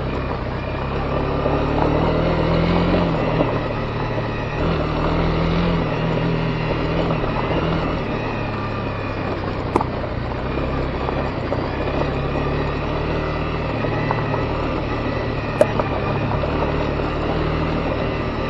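Honda CB250R's single-cylinder engine running at moderate revs, its note stepping up and down with the throttle, over the steady crunch and rush of tyres on a gravel road. Two sharp ticks stand out, about ten seconds in and near the end.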